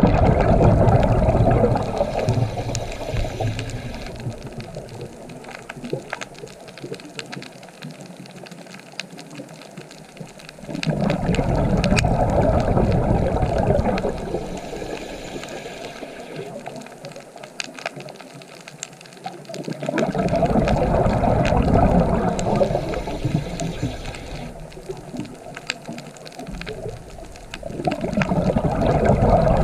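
Sea waves breaking and washing in. The rushing noise swells suddenly in four surges, about nine seconds apart, and fades away between them.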